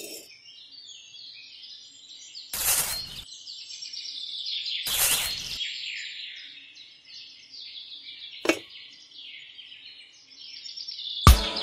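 Birds chirping and twittering continuously, with two short bursts of noise a couple of seconds apart and a single sharp tick later on. Plucked-guitar background music comes back in near the end.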